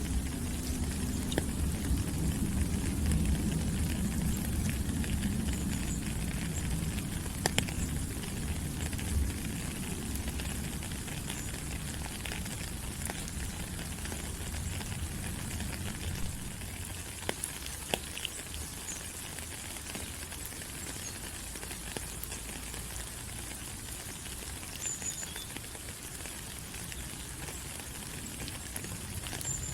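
Steady rain falling on rainforest leaves, an even hiss with scattered sharp drops and ticks. A low rumble under it is stronger for the first several seconds, then eases off.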